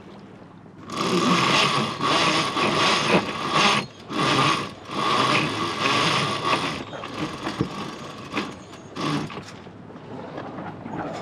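Sailboat winch being worked as a line is hauled in, its pawls ratcheting with a ringing tone, in strokes with short breaks about four and five seconds in; it stops about seven seconds in, leaving lighter knocks and rattles of gear.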